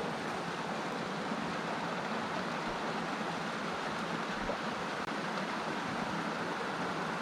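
Small stream running steadily, an even rush of water with no breaks.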